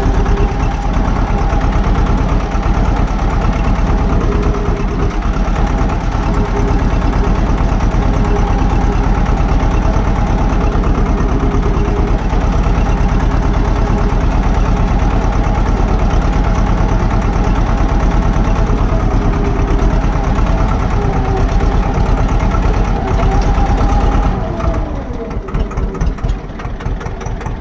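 Swaraj tractor's diesel engine running steadily, then throttling back near the end, its pitch falling and the sound getting quieter.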